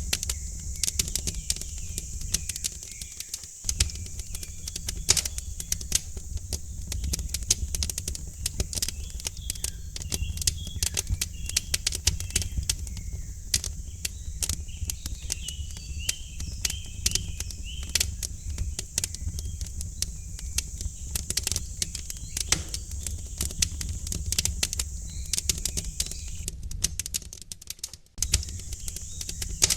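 Wood fire in a fireplace crackling, with irregular sharp pops over a low steady rumble. Songbirds chirp faintly in the background, mostly in the middle.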